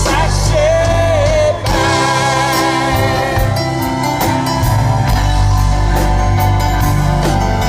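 A rock band playing live, with drums and a heavy bass line under a singing voice and held, wavering lead notes.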